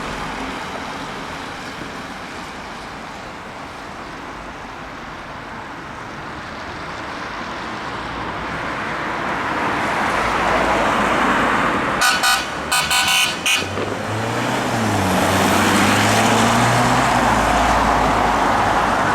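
Road traffic noise, with a vehicle horn sounding in several quick short blasts about twelve seconds in. A low wavering tone follows as the traffic noise grows louder.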